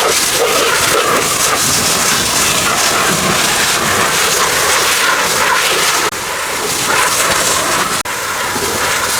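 Pressure washer spraying water onto a car's body: a loud, steady hiss of the jet that cuts out for an instant twice, about six and eight seconds in.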